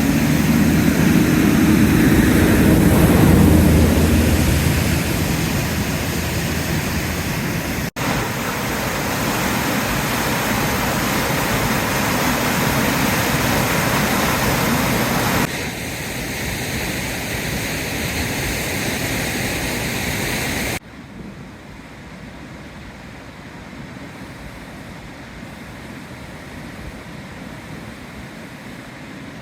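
Steady rush of fast-flowing floodwater from an overflowing river, heard across several clips that change suddenly, and much quieter after about 21 seconds. A low engine hum runs under it for the first few seconds.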